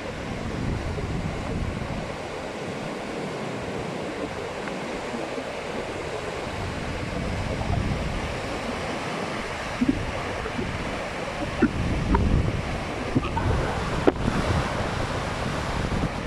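Sea waves washing onto the shore in steady surges, with wind buffeting the microphone. A few short knocks come in the second half.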